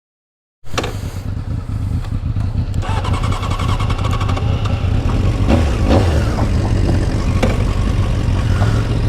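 A 600 cc sport motorcycle's engine running steadily, cutting in suddenly about half a second in.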